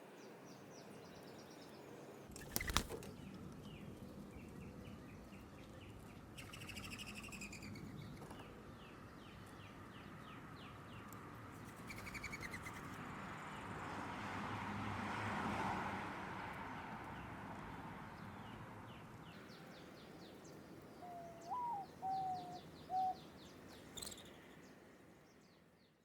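Small birds chirping in quick series over a steady outdoor hiss that swells midway, with a sharp click about three seconds in and a few louder, lower whistled notes near the end.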